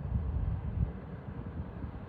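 Low, uneven rumble of wind buffeting the microphone over the distant engine noise of a jet airliner.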